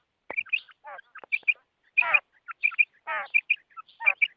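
Female quail calling: quick pairs of short, sharp high notes mixed with longer trilled calls that slide downward in pitch, about one a second.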